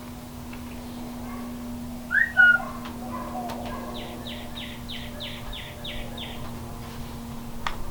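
Birds calling: two loud gliding chirps about two seconds in, then a quick run of about eight repeated notes, over a steady low hum. A single sharp click comes near the end.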